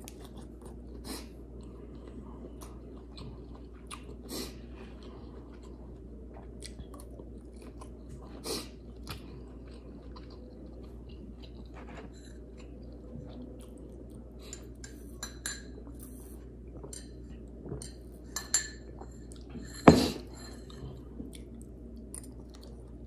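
Close-up chewing and crunching of a mouthful of broccoli and shrimp, with small scattered clicks of a metal fork against a plastic takeout bowl. A single sharp knock about 20 seconds in is the loudest sound.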